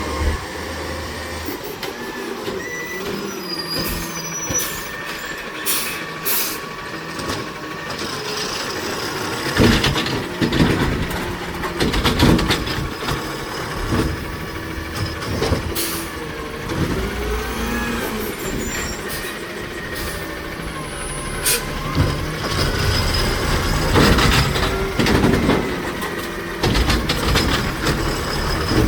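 Garbage truck at work: its diesel engine running, with repeated bangs and clanks from the body and cans and short air-brake hisses.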